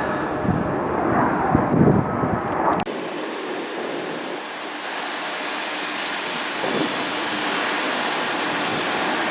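Jet airliner engine noise at an airport: loud for the first three seconds, then an abrupt cut to a steadier, quieter rush of jet noise without the low end.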